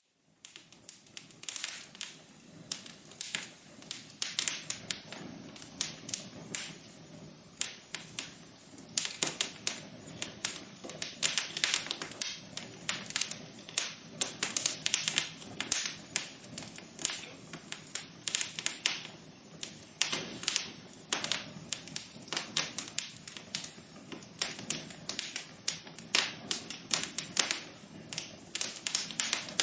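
Wood fire crackling in a fireplace: many irregular sharp pops and snaps over a steady low hiss of burning, cutting in abruptly after a moment of silence.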